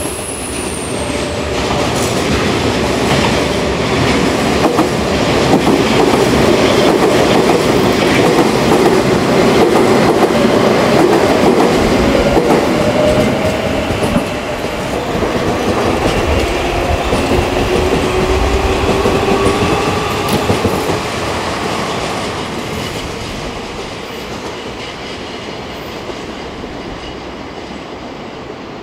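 Electric commuter trains running through on an elevated four-track line: steel wheels clattering over rail joints, with a whine from the motors or wheels that slides in pitch. The sound builds to its loudest in the first half and dies away over the last several seconds.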